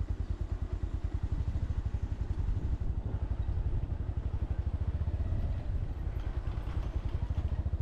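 Motorcycle engine running steadily, its exhaust beating in a quick, even pulse.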